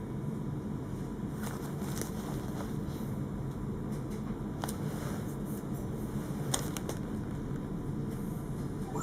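Alstom Citadis 402 tram running, a steady low rumble with a few light clicks and rattles scattered through it.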